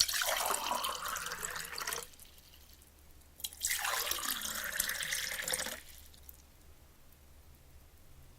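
Water running from a tap in two bursts of about two seconds each, with a faint trickle between them and after.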